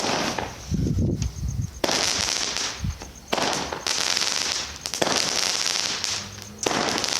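Consumer firework fountain burning, its hissing, crackling spray coming in five surges that each start suddenly, about one and a half seconds apart, with a low rumble in the first.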